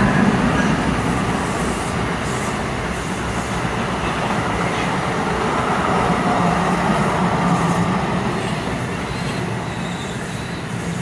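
New Jersey Transit passenger train hauled by an ALP-46A electric locomotive rolling into the platform. It makes a steady rumble of wheels on rail that eases off slightly toward the end as the train slows.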